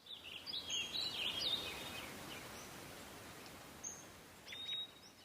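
Small birds chirping and twittering in quick up-and-down notes, a busy flurry over the first two seconds, then a few scattered calls near the end, over a faint outdoor hiss.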